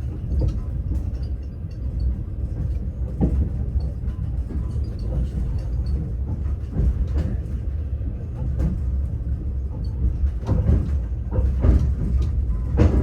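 Steady low rumble of a moving passenger train heard from inside the carriage, with occasional knocks of the wheels over the track at uneven intervals.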